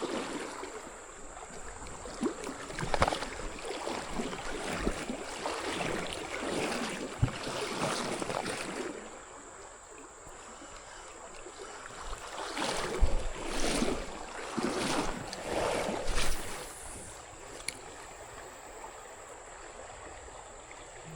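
Water splashing and sloshing around a kayak in two stretches of irregular strokes, over the steady rush of a mountain creek.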